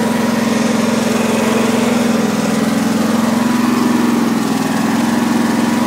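Briggs & Stratton opposed-twin lawn tractor engine running steadily at an even speed.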